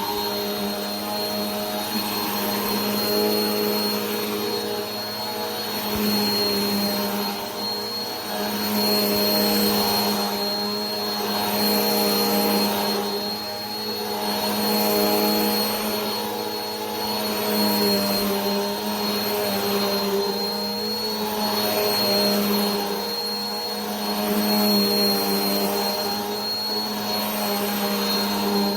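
Vacuum cleaner motor running continuously, with a steady hum, a high whine and airflow hiss. The rush of air swells and eases every couple of seconds.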